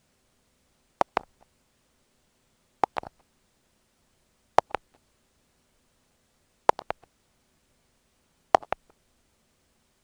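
Thumbtacks (push pins) clicking close against an earphone microphone: five quick clusters of two or three sharp clicks, about one cluster every two seconds.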